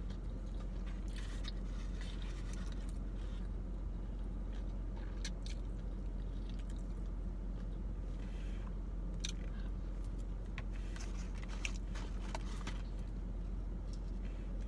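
Chewing and small mouth and handling clicks of someone eating sauce-dipped boneless chicken wings, over a steady low hum.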